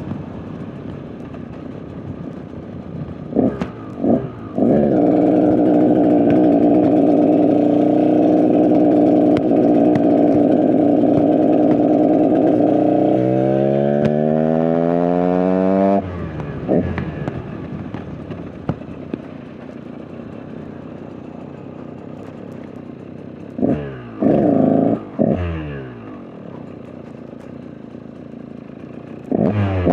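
KTM EXC 125 single-cylinder two-stroke dirt bike engine being ridden: a couple of quick throttle blips, then held at high revs for several seconds and climbing in pitch before the throttle is shut off about sixteen seconds in. It then runs at low revs with a few more sharp blips, and revs up again near the end. The owner says the bike is not running well right now.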